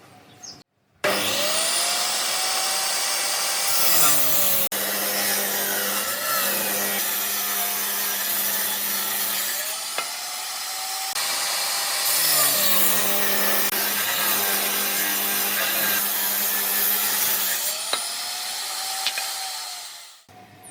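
Power tool sawing through wood in two long passes, one after the other. It starts abruptly about a second in and fades out just before the end, with the motor's pitch shifting as it works.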